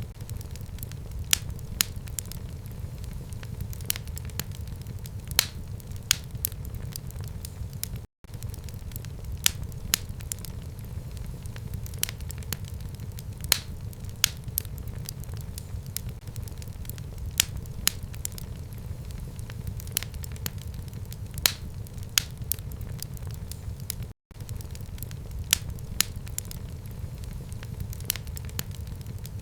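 Fire crackling in a home fireplace: irregular sharp pops and snaps over a steady low rumble of the flames. The sound cuts out for an instant twice, about 8 and 24 seconds in.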